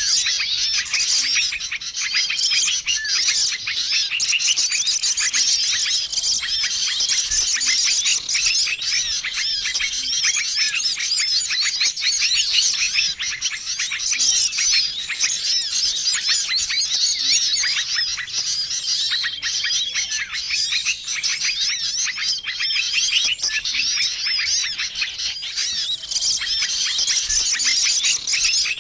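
A dense, noisy chorus of many small songbirds chirping and twittering without pause, the busy mixed call used as a lure to draw small wild birds in. A short, level trill recurs every few seconds under the chatter.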